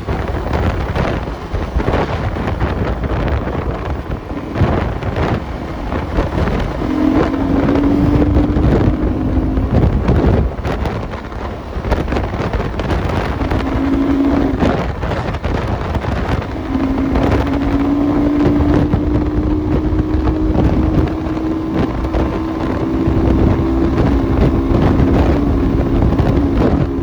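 Enduro motorcycle engine running while riding over rough ground, with wind on the microphone and frequent knocks and clatter. A steady engine note comes in briefly twice, then holds through most of the second half, creeping slightly upward.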